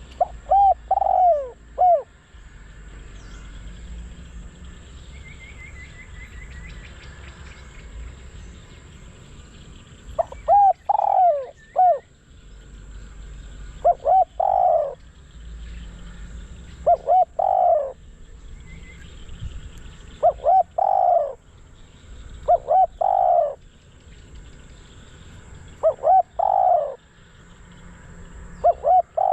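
Spotted dove, a caged decoy bird, cooing in short repeated phrases. After a pause early on, the phrases come roughly every three seconds. Faint chirps of a smaller bird can be heard in the pause.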